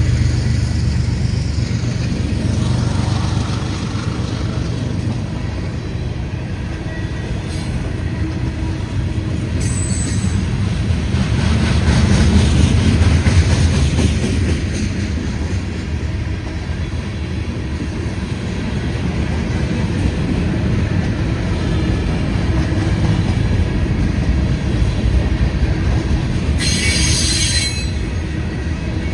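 Freight train cars rolling past at close range with a steady low rumble of wheels on rail. A short burst of high-pitched noise near the end, in keeping with wheel squeal.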